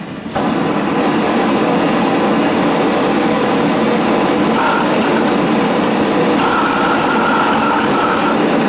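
Homemade propane forge burners burning with a steady, loud rushing noise that jumps up suddenly a moment in. A faint whistle comes and goes in the second half.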